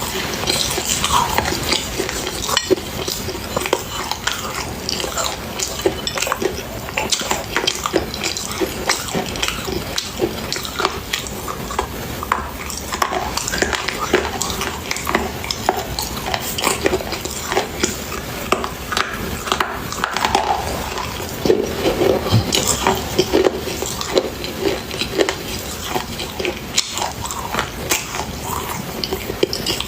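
Close-up crunchy chewing: a dense, continuous run of crackling crunches and small clicks, as of something brittle being bitten and chewed.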